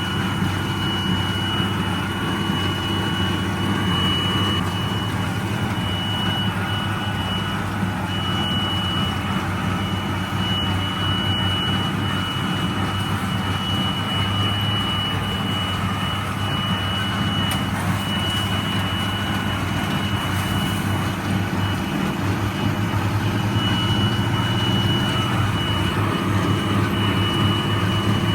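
A 1977 International Harvester 886 tractor's six-cylinder diesel runs steadily under load, pulling a John Deere 348 square baler as it bales hay. A thin high whine runs over it and drops out now and then.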